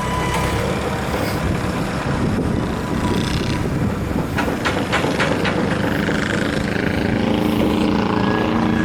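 Heavy trucks running with a steady low diesel rumble, and a quick run of five or so sharp clicks about four to five seconds in.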